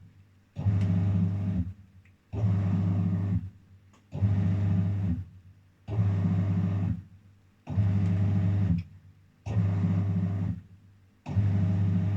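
Daewoo DWF-806 WPS washing machine in its wash cycle, the drum motor switching on for about a second at a time with a low hum, then stopping briefly, about once every two seconds: the short back-and-forth agitation of the wash.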